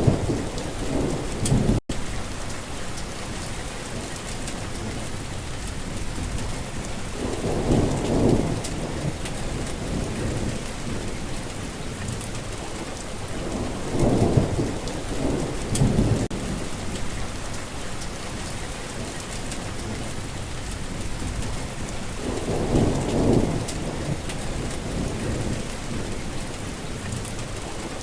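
Heavy rain falling steadily, with thunder rolling in repeated deep rumbles: one right at the start, one about eight seconds in, two close together midway and another later on. Just before two seconds in, the sound cuts out for an instant.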